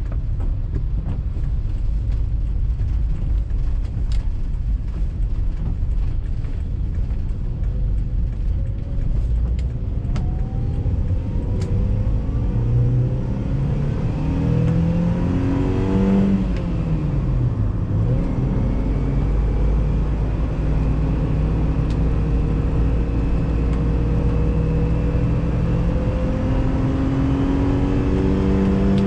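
Inside the cabin, a Toyota Veloz 1.5 manual's four-cylinder engine pulls the car along: the revs climb steadily, drop sharply at a gear change a little past halfway, then climb slowly again in the next gear.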